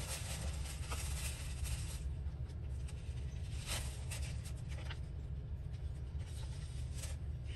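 Paper scraps rustling and being handled on a craft table, with a few brief scratchy rustles, over a steady low hum.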